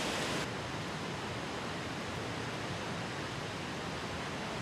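Steady rush of fast-flowing river water, a little duller after about half a second.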